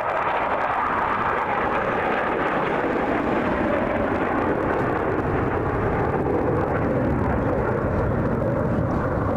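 Airplane engine noise, a loud, steady rush without a distinct engine tone.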